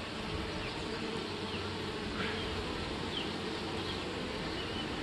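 Honey bees buzzing steadily around an opened nuc box as the frames of a newly housed swarm are lifted out for inspection.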